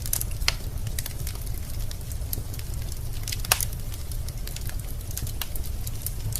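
Wood fire burning in a fireplace: a steady low rumble with scattered sharp crackles and pops from the burning logs, the loudest pop about three and a half seconds in.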